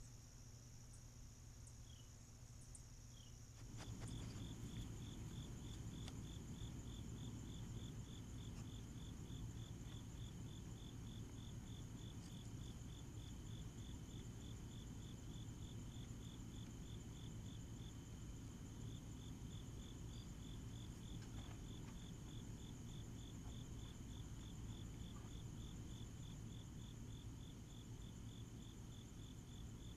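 Crickets chirring: a steady high trill throughout, joined about four seconds in by a second, lower trill of rapid even pulses, over faint low background noise.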